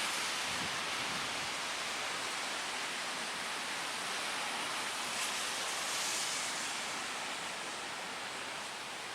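Steady rain falling, an even hiss with a few faint drip ticks and a brief swell about six seconds in.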